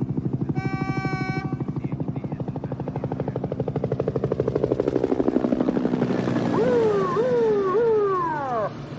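Helicopter rotor chopping fast and steadily overhead in a traffic jam. Near the start a car horn sounds for about a second. About six and a half seconds in, a siren starts, its pitch sweeping quickly up and down over and over.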